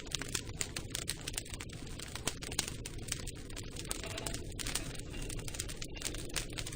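Campfire crackling: irregular quick pops and snaps of burning wood over a steady low rumble of the flames.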